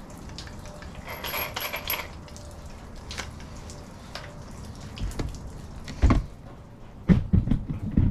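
Workshop handling noises: a quick run of metallic clicks about a second in, then several heavy dull thumps near the end.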